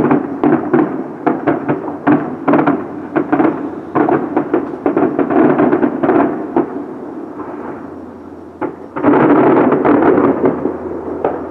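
Fireworks going off in quick succession: a dense run of crackling bangs that eases off about seven seconds in, then a fresh loud volley about nine seconds in.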